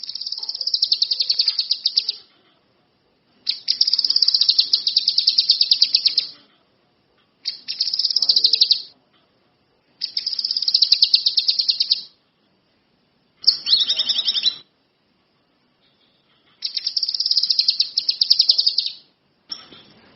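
Kinoi songbird in full song: repeated phrases of a fast, high trill, each lasting a couple of seconds, about six of them with short pauses between.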